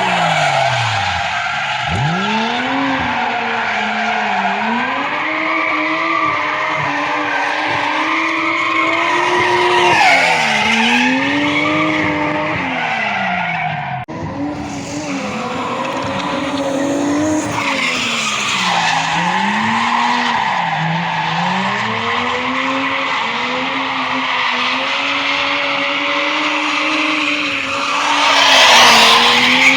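Drift car engine revving up and down as it is held on the throttle through slides, with tyres squealing against the tarmac. There is a brief break about halfway, and the tyre squeal swells near the end.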